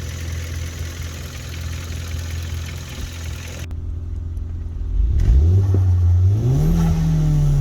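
2016 Hyundai Veloster Turbo's 1.6-litre turbocharged direct-injection four-cylinder idling, then revved once about five seconds in: the pitch climbs for a second and a half and then slowly falls back. The engine is running fairly normally after an intake-valve cleaner treatment.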